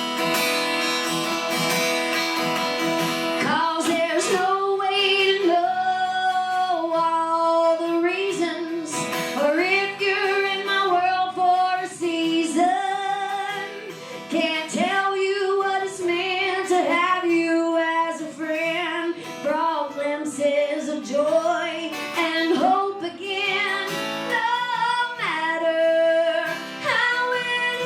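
A woman singing live, accompanied by acoustic guitar.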